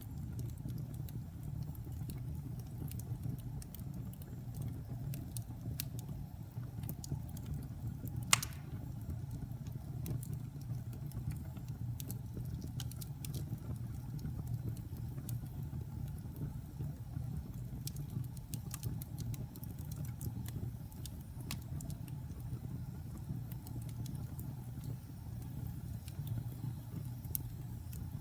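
Wood fire burning in a fireplace: a steady low rumble of flames with scattered crackles and small pops, and one louder pop about eight seconds in.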